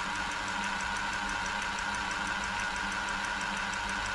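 Silver/Pfaff 1139 sewing machine running steadily under its motor, a hum with a faint regular ticking, freshly oiled.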